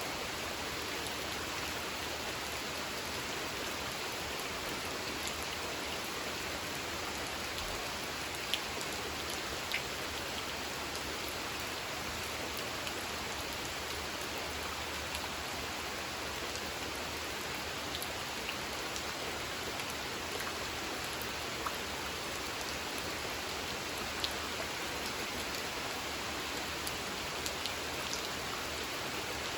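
Steady rain falling on a pond's water surface: a constant even patter, with now and then a single louder drop tick standing out.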